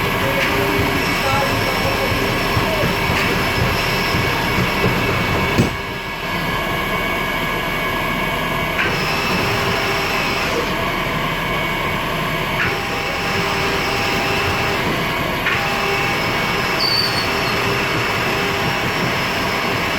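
Steady din of airport ramp machinery beside the airliner's cargo hold, with several high whining tones that shift every few seconds. A sharp knock comes about five and a half seconds in.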